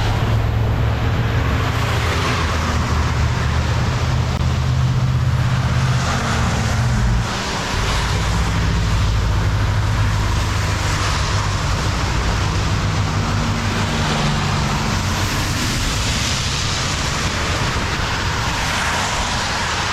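A vehicle engine running steadily, its pitch and load shifting about seven seconds in and again near the middle, over a constant rush of water.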